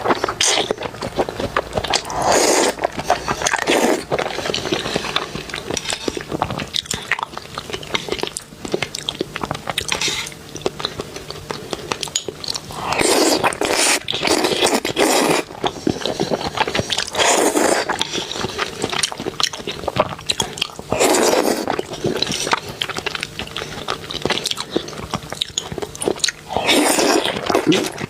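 Close-miked eating of seafood: biting and chewing with many short crisp clicks and crunches, and louder stretches of chewing every few seconds.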